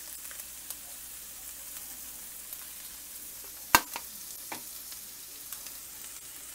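Ground beef and onions sizzling in a frying pan, a steady crackle with scattered small pops. One sharp knock a little past halfway stands out above the sizzle.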